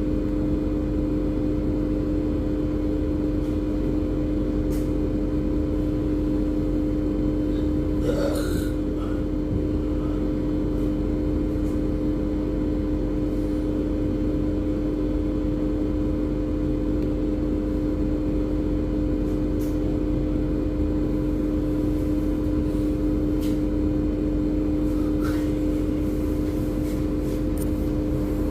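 Marine diesel engines droning steadily with a constant deep hum and rumble, as heard aboard a harbour tug assisting a ship to berth. A brief higher wavering sound cuts in about eight seconds in.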